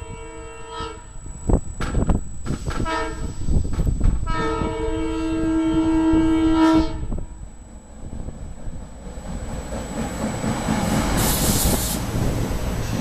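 SEPTA commuter train's air horn sounding: one blast ends about a second in, a short blast follows near three seconds, then a long blast of about two and a half seconds. After the horn, the rumble of the train rises as it approaches.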